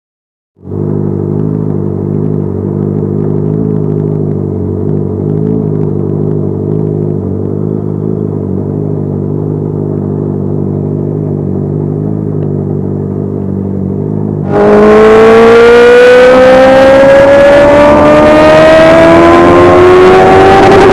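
Superbike engine idling steadily. About two-thirds of the way through it is suddenly opened up and runs much louder, its pitch climbing steadily as the bike accelerates.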